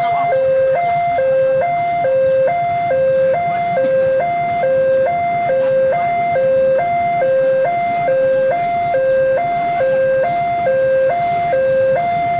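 Railway level-crossing warning alarm sounding: an electronic two-tone signal that alternates steadily between a low and a high note about once a second, warning that a train is approaching.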